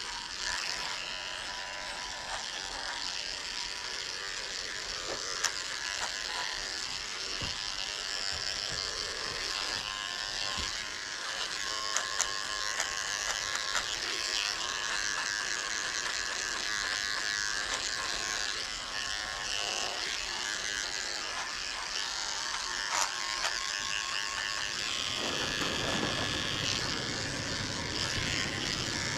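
Electric dog grooming clippers running steadily, with a few light clicks.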